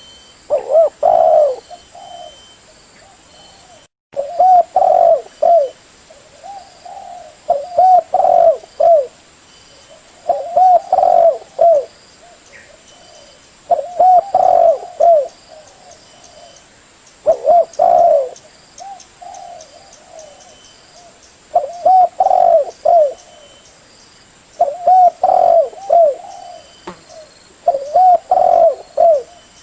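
Spotted dove (Spilopelia chinensis) cooing: the same short phrase of several low coos, repeated about every three to four seconds.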